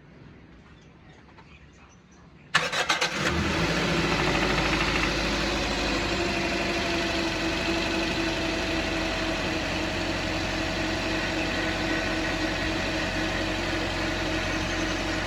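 Toyota Corolla XLi engine cranked by the starter and catching about two and a half seconds in, then idling steadily.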